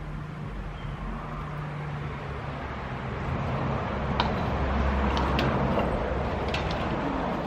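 A motor vehicle engine running, growing louder toward the middle and easing off near the end, with a few sharp clicks.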